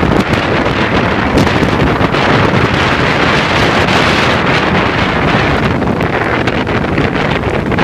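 Wind buffeting the microphone: a loud, steady rush with a low rumble, with no let-up.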